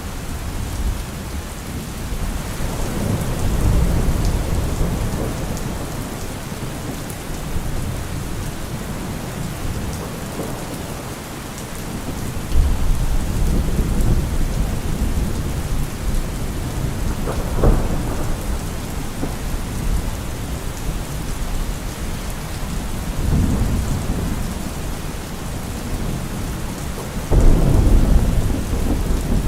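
Steady rain falling on trees, with low rolling thunder rumbling several times; the loudest rumble starts suddenly near the end.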